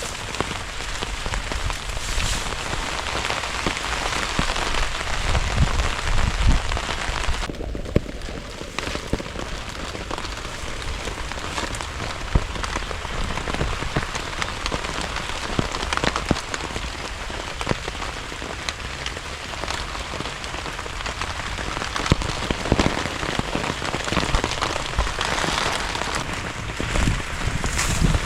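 Heavy rain falling steadily on a surface, with many distinct drop hits.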